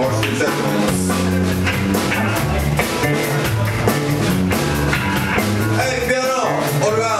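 Funk band playing, with a steady bass line, drum kit and guitar.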